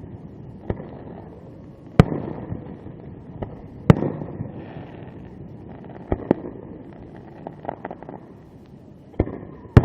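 Aerial fireworks shells bursting: a string of sharp bangs at irregular intervals, three of them much louder, each trailing off in a rumbling echo, with a quick run of smaller crackling pops in between.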